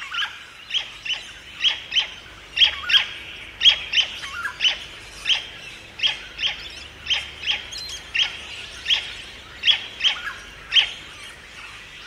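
Bird chirping: a steady run of short, sharp chirps, about two a second, some louder than others.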